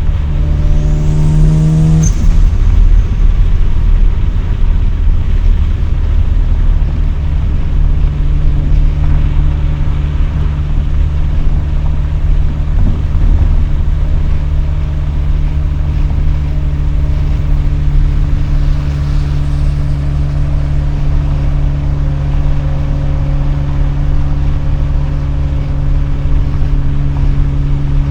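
Mazda RX-7's rotary engine through an RE Amemiya Dolphin Tail exhaust, heard from inside the cabin with the windows down. The revs climb briefly in the first two seconds, then the engine settles into a steady drone at constant speed over a low road rumble.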